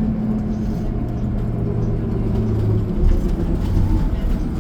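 Steady engine hum and road rumble of a city bus, heard from inside the cabin while it drives. About three seconds in the engine note shifts and the low rumble grows.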